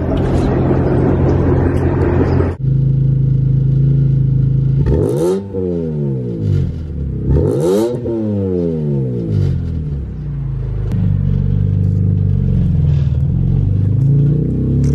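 BMW car engine started up and running, revved sharply twice, about two and a half seconds apart, near the middle.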